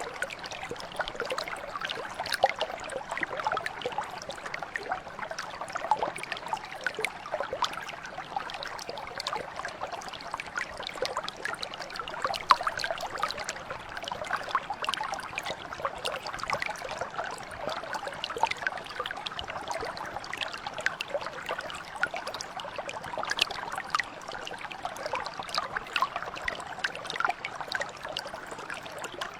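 Small stream or mountain brook flowing and trickling over stones, a steady babble with many small splashes.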